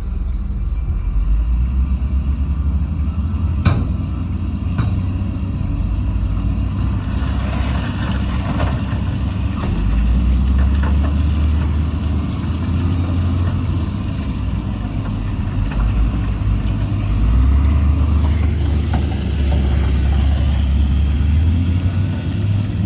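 Heavy diesel engines of construction machinery running with a steady low rumble. A sharp knock comes about four seconds in, and a hiss rises over the engines from about seven to ten seconds.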